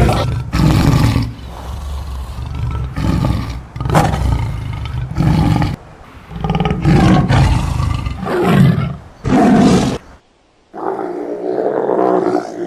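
Loud animal calls: a run of separate roaring calls, each under a second or so, then after a brief pause about ten seconds in, a longer call.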